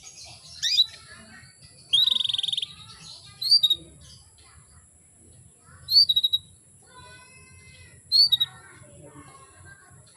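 Female canary giving short, sharp upswept call notes about every two to three seconds, with one rapid buzzy trill about two seconds in. These are the calls of a female in breeding condition, used to stir a male canary into song.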